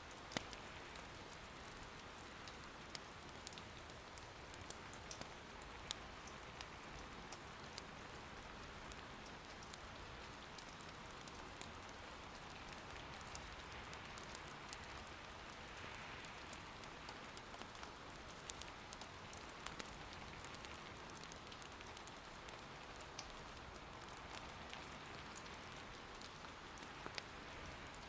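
Soft, steady rain patter, with occasional sharp pops from firewood crackling in an irori hearth fire.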